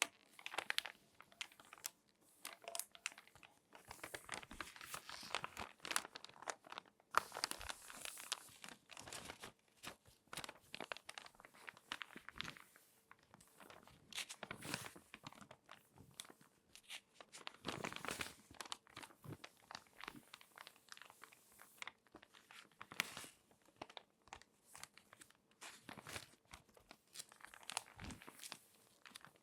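Glossy magazine pages being folded and crinkled by hand, close up: irregular crackles and rustles, with short pauses between handlings.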